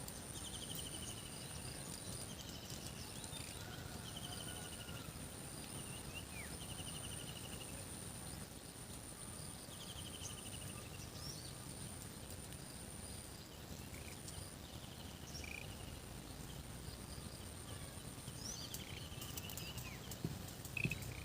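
Rural outdoor ambience: a steady high-pitched insect drone runs over a low rumble. Short descending trills repeat every couple of seconds, with scattered bird chirps and a few knocks near the end.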